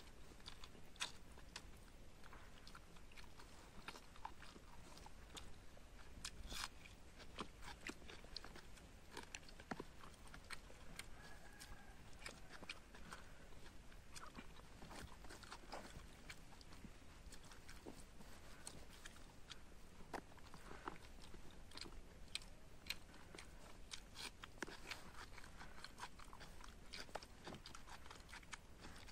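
Faint close-up eating sounds: a person chewing mouthfuls of rice and egg curry, with many small, irregular mouth clicks and soft wet taps from fingers working the food on a leaf plate.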